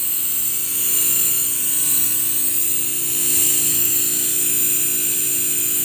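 Newly fitted compressor of a 1-ton Gree air conditioner running after replacement: a steady mechanical hum with an even hiss over it.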